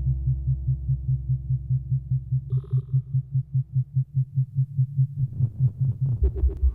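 Abstract electronic synthesizer music: a low bass tone throbbing about six or seven times a second over a fading low drone, with a short bright blip about halfway and a flutter of clicking pulses near the end.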